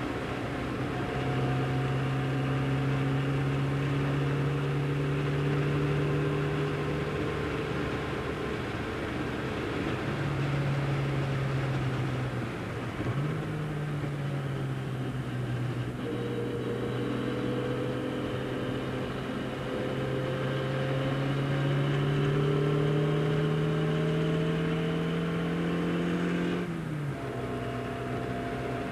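The 1275cc four-cylinder A-series engine of a modified 1969 Austin-Healey Sprite with a large-bore exhaust, heard from inside the cabin while driven hard. The revs hold steady, dip and jump briefly near the middle, then climb slowly and drop off sharply near the end.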